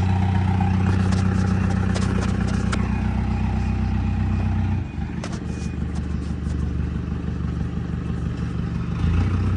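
Heavy vehicle's diesel engine running steadily. Its hum drops off about five seconds in and picks back up near the end, with a few faint clicks over it.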